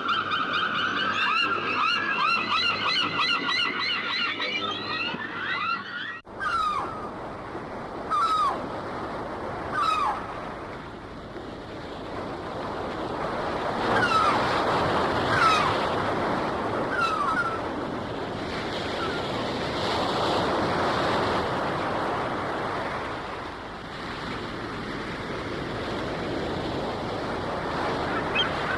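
Gulls calling over ocean surf: a dense chorus of many gulls at once for about the first six seconds, then an abrupt switch to waves washing, with single short down-slurred gull cries every second or two.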